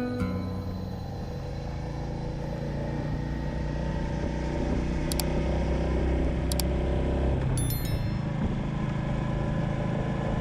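Royal Enfield Meteor 350's single-cylinder engine running while riding, its note slowly rising, then changing about three quarters of the way in as the bike eases off. A few faint high ticks sit over it.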